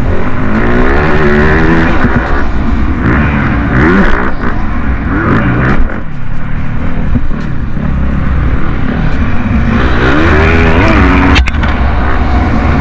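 Motocross bike engines revving hard, their pitch rising and falling again and again as the throttle opens and closes, with a sharp crack about eleven seconds in.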